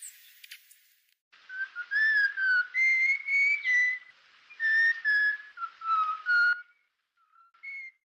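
A series of about a dozen clear whistled notes, each held briefly at a steady or slightly gliding pitch, starting a little over a second in. Two fainter notes follow near the end.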